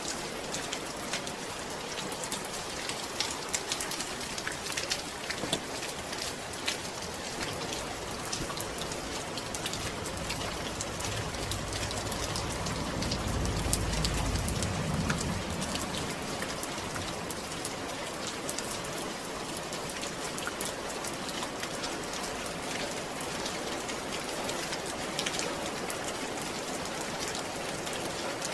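Steady rain falling, a continuous hiss with many individual drops ticking. A low rumble swells and fades about halfway through.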